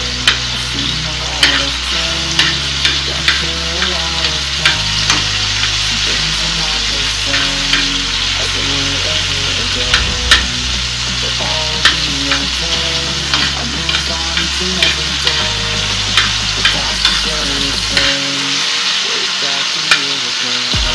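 Tomato wedges frying in hot oil in a pan, sizzling steadily, while a metal spoon stirs them and clinks against the pan about once or twice a second.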